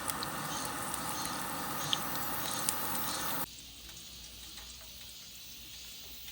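Fried squid sizzling in oil, with a few small pops. The sizzle cuts off suddenly a little past halfway, leaving a faint, quieter background.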